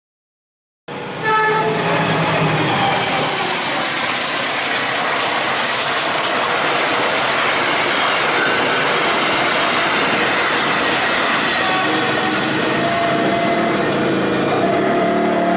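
Passenger train passing close by at speed: a loud, steady rush of wheels on the rails and the coaches going past. It starts suddenly about a second in.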